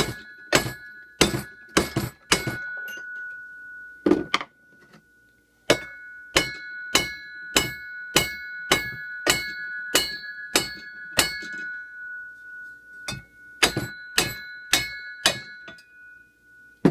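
A big hammer striking a steel driveshaft clamped in a vise: about twenty sharp metallic blows in three runs, about two a second, the shaft left ringing with a steady tone between blows. The blows are knocking the two halves of a 2005 GTO driveshaft apart at the center bearing.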